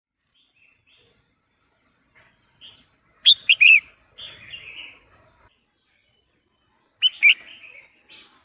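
Female red-whiskered bulbul calling. A quick run of three sharp notes comes about three seconds in, followed by a harsher, buzzy note, and another pair of sharp notes comes near the end.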